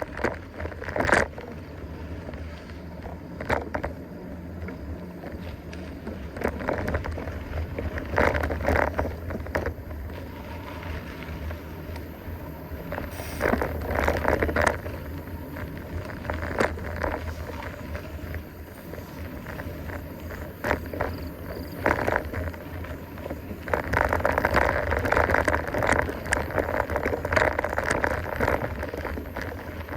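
Mountain bike riding over a rough trail: tyres crunching on dirt and debris and the bike rattling over bumps, over a steady low rumble. The crunch and rattle grow louder in several stretches, most of all near the end.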